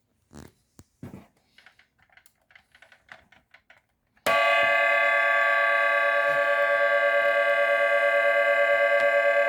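Light plastic clicks and handling of a 1978 Milton Bradley Star Bird toy spaceship. About four seconds in, its electronic engine sound switches on suddenly: a loud, steady, buzzy synthesized tone at one pitch that soon takes on a fast throb in loudness.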